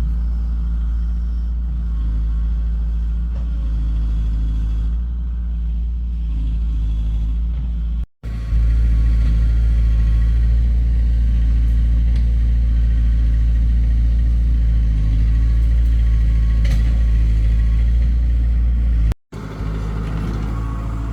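A heavy engine running steadily with a deep, even drone. It is broken twice by a brief silent gap.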